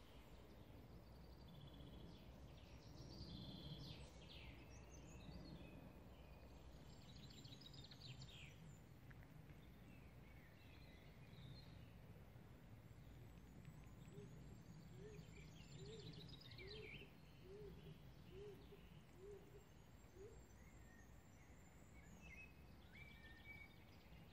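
Faint outdoor garden ambience: several small birds singing in scattered phrases over a low steady rumble. About halfway through, a bird gives a run of about eight low, evenly spaced notes.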